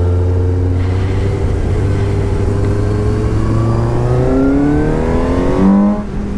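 Suzuki GSX-S750's inline-four engine pulling under acceleration, its pitch climbing steadily, then the revs and level drop off briefly near the end.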